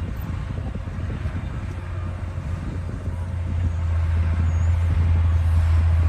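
D60 bulldozer's diesel engine running under load, a steady low hum that grows louder about halfway through.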